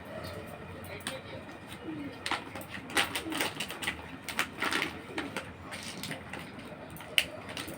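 Baby parrot giving a run of short, repeated chirping calls, with a sharp click near the end.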